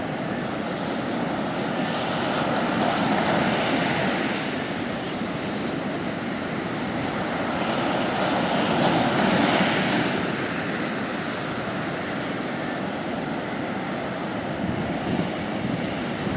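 Sea waves breaking and washing onto a beach, with a steady hiss of surf that swells louder twice, about three and nine seconds in.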